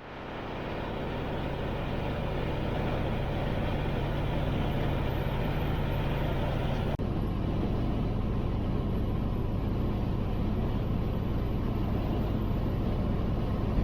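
Peterbilt 389 semi-truck driving at highway speed: a steady mix of diesel engine hum and road noise. It fades in at the start and briefly drops out about halfway through.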